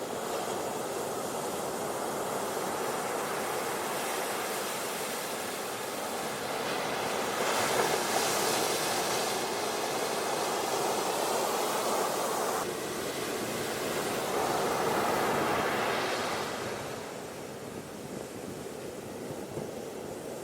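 Ocean waves washing on a beach, a steady rush of surf that swells louder for several seconds in the middle and eases off near the end.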